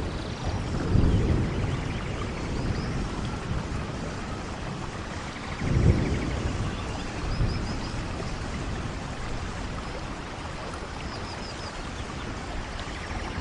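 Steady rainfall with two low swells of thunder rumble, one about a second in and a stronger one about halfway through.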